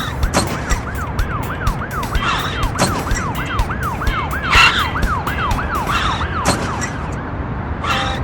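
An emergency-vehicle siren in a fast yelp, rising and falling about three times a second and stopping about six and a half seconds in. Scattered sharp knocks and a steady low rumble run under it.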